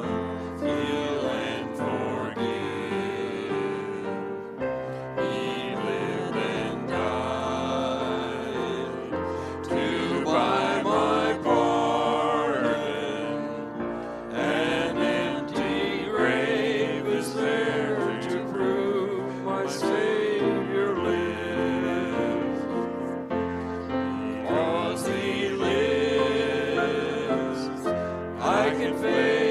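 Congregational worship music: voices singing a hymn with instrumental accompaniment over a steady bass line.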